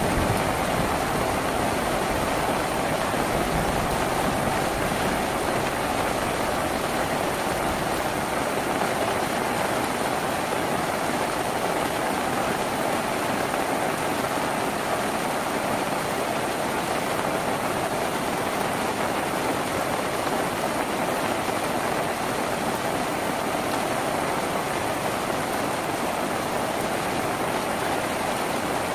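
Steady heavy rain drumming on a tin roof, an even rushing patter with no letup.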